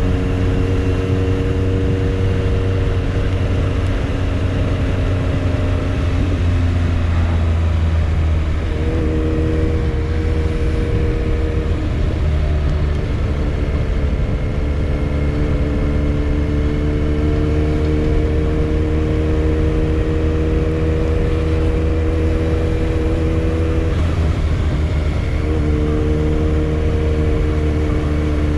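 Motorcycle engine running at a steady pace on the move, its tone breaking and dropping several times and then returning, as with gear changes or easing off the throttle.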